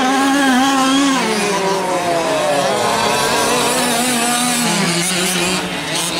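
Several 1/5-scale RC off-road trucks' small two-stroke gasoline engines racing, their pitch repeatedly rising and falling as they rev and back off around the track.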